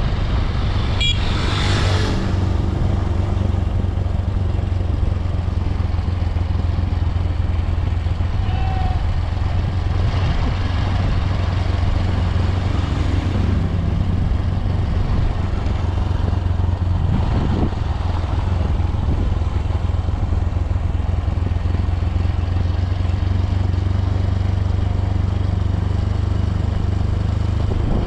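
Honda CRF150L motorcycle's single-cylinder four-stroke engine running steadily under way, with a brief louder swell about a second or two in.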